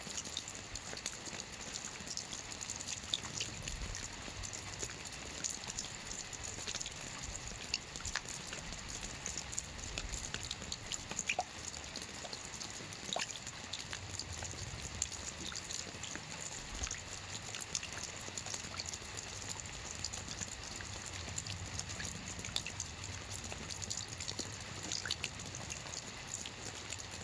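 Soft rain falling on a roof: a steady hiss with many small drop ticks scattered through it.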